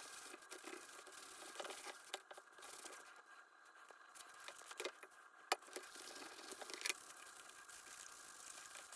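Faint handling noises, rustling and small clicks, with one sharp click a little past halfway and a fainter one near seven seconds in.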